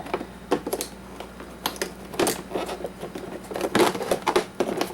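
Irregular clicks and knocks of hard plastic coffee-maker parts being handled and worked apart by hand, as a small internal pipe is pulled loose, with a cluster of sharper knocks near the end.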